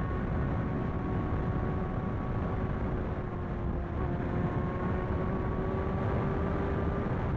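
Sportbike engine running at a steady cruise, its pitch creeping up slightly in the second half and settling near the end, under a heavy low rumble of wind and road noise.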